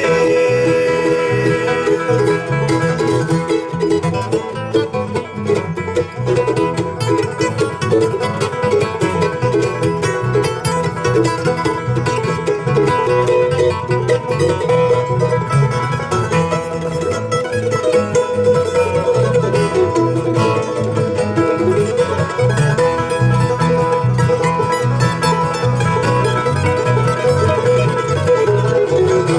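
Live bluegrass band playing an instrumental break with no singing: rolling banjo picking over strummed acoustic guitar and a steady beat.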